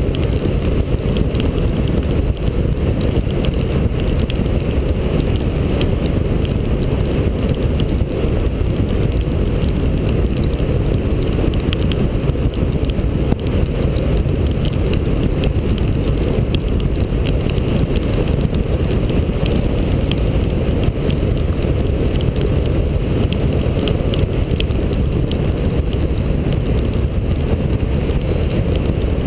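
Steady wind rush on a helmet-mounted GoPro at highway speed, mixed with the running of a Yamaha FZ1's inline-four engine, with no change in speed or throttle.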